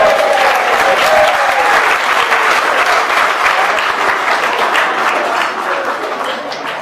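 Audience applauding as a sung number ends. The last held note of the singers fades within the first second, and the clapping slowly dies down.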